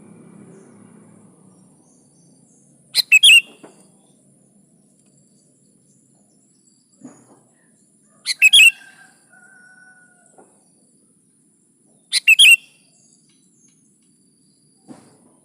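Sooty-headed bulbul (kutilang) giving three short, loud calls, roughly four seconds apart.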